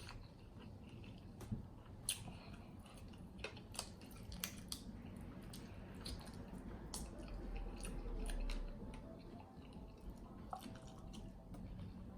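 A person chewing saucy Chinese chicken wings close to the microphone: soft wet squishes with scattered sharp clicks.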